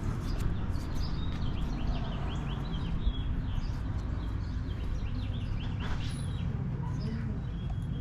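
A songbird singing two quick runs of short, falling chirps, over a steady low background rumble.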